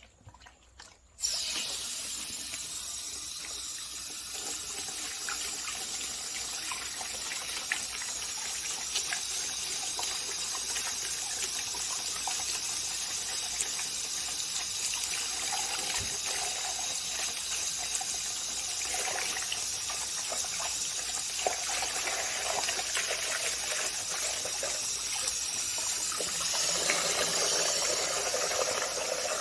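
Running water gushing steadily, starting abruptly about a second in.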